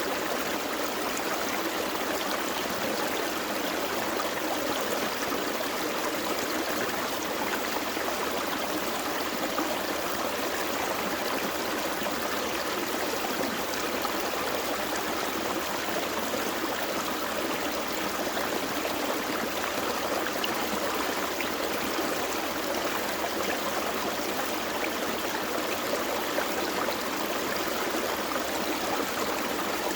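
Small forest creek flowing steadily over rocks, a constant rushing babble with no breaks.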